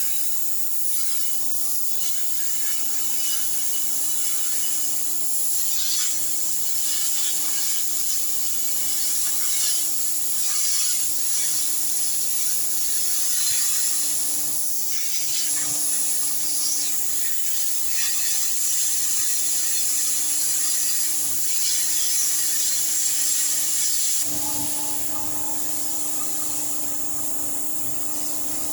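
Wood bonfire burning, a steady run of small crackles and pops with a hiss.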